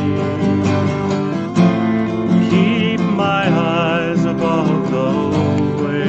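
Live acoustic guitar strumming a slow worship song, with a sustained wavering melody line above it.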